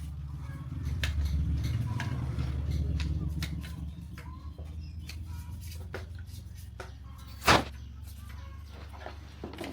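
Small metal tools and engine parts clicking and knocking against each other, with one sharp loud metallic knock about seven and a half seconds in, over a low steady hum.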